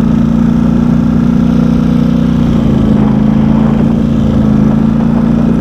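Vehicle engine running at a steady speed, a constant low drone.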